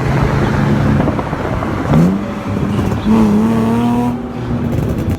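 Car engine running at a car meet, then revving: a quick rise in pitch about two seconds in, and a second rev held for over a second starting about a second later.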